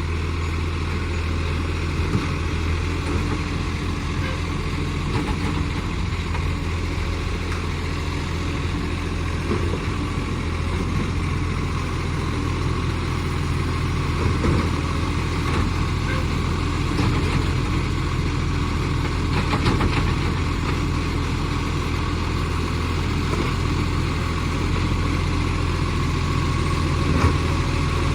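Commercial garbage truck's diesel engine running steadily near idle, with a bad exhaust leak, and a few faint knocks along the way.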